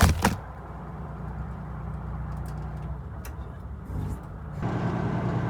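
Semi truck's diesel engine running steadily, heard from inside the cab, getting louder about four and a half seconds in. A brief loud knock at the very start.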